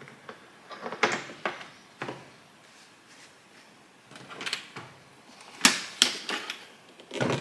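Hard plastic clicks and knocks, a handful spread irregularly with a cluster near the end, as the parts of a SilverCrest robot vacuum cleaner are handled.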